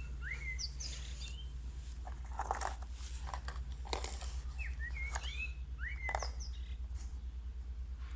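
Small birds chirping in short rising and falling calls, two runs of calls a few seconds apart, over a steady low hum.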